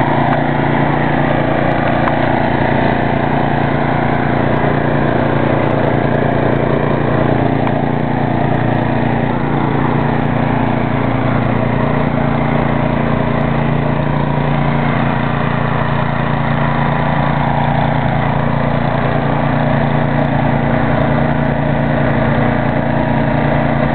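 Ariens snow thrower's small gasoline engine running steadily at a constant speed.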